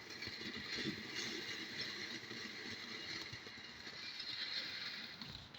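A firework hissing steadily with a fine, faint crackle.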